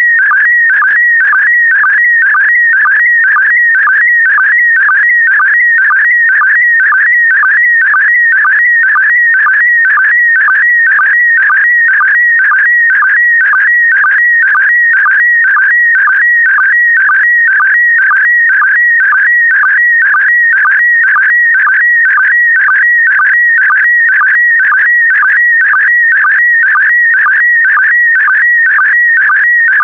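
PD120 slow-scan television (SSTV) image signal: a loud, warbling whistle-like tone that keeps changing pitch as it carries the picture. It is broken by a short drop in pitch, the line sync pulse, about twice a second, once for each pair of image lines sent.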